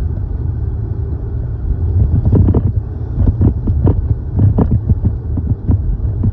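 Car interior road and engine noise: a steady low rumble while driving. From about two seconds in, short irregular knocks come through it several times a second.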